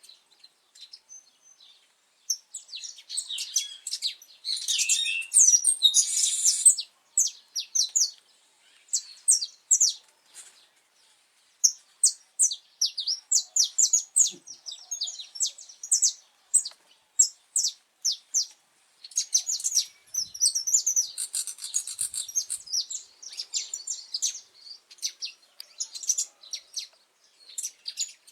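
Saffron finch singing: long phrases of quick, high chirps and trills, broken by short pauses.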